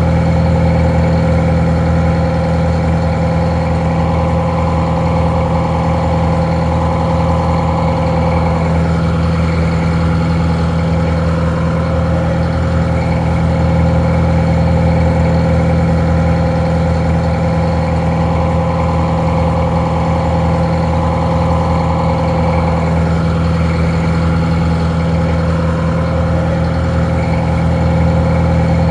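Detroit Diesel 4-71, a two-stroke inline-four diesel, idling steadily with an even, unchanging note that sounds a little muffled.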